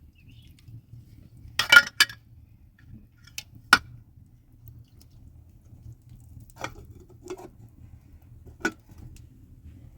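Scattered sharp clinks and knocks of kitchenware being handled, loudest in a quick cluster just before two seconds in.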